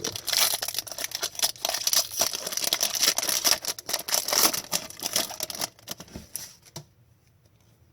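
Trading cards being handled and flipped through by hand: a dense run of quick dry clicks and card-stock rustling that stops about seven seconds in.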